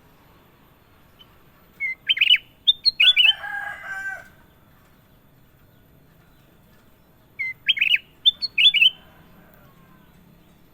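A kutilang emas bulbul singing two short, loud phrases of quick whistled notes about five seconds apart, the first trailing off in a lower warble.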